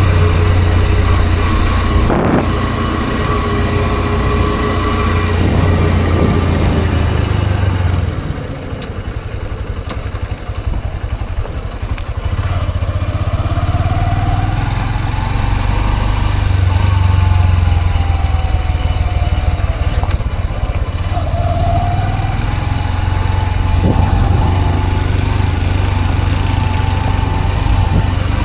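Honda CB125F's single-cylinder four-stroke engine running as the motorcycle is ridden. It eases off and quietens about a third of the way in, then climbs in pitch as the bike accelerates, and pulls up again later on.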